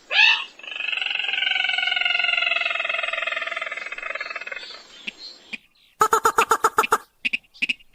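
Recorded call of a rice-field crake (sintar), played as a hunting lure. It starts with one long, slightly falling trilled call lasting about five seconds. After a short pause comes a fast run of sharp repeated notes, about eight a second, then a few spaced notes near the end.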